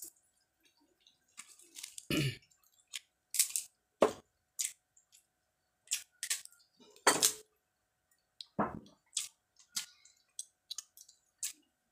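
A person chewing young jengkol (dog fruit) close to the microphone, with wet, squishy mouth sounds in a string of short, irregular bursts.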